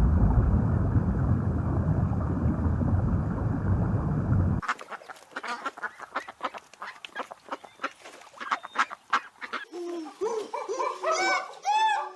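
A loud, steady rushing noise cuts off abruptly a few seconds in. Scattered clicks follow, then in the last couple of seconds a run of short, arching honking calls from birds such as geese or ducks.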